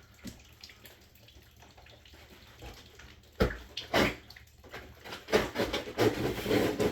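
Cardboard packaging of a new water heater being handled: two sharp knocks about three and a half and four seconds in, then a run of scraping and rustling near the end.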